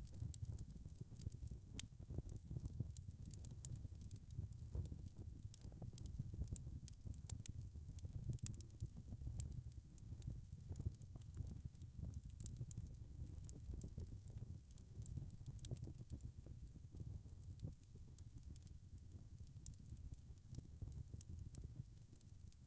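Wood fire crackling in a fireplace: a steady low rumble of burning with frequent, irregular crackles and pops.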